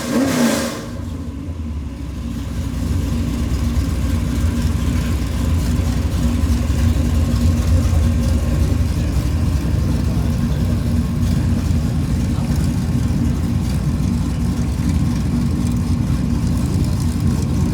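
Super Stock race car engine running at speed: a loud rush as a car goes by in the first second, then a steady engine drone that builds about two seconds in and holds.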